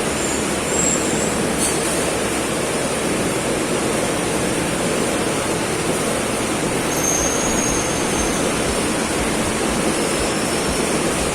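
Steady rushing noise with no distinct strikes or changes, with a few faint high whistles about halfway through.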